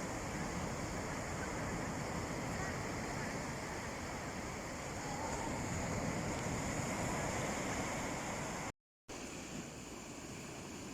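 Sea waves washing onto a beach, a steady rushing surf that swells about five seconds in. Near the end the sound cuts out completely for a moment, then resumes a little quieter.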